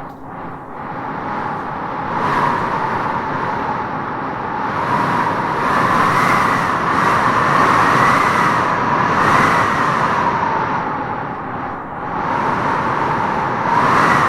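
Wind howling in gusts through tropical trees: a steady rush with a wavering whistle that swells and eases, dropping briefly near the end before rising again.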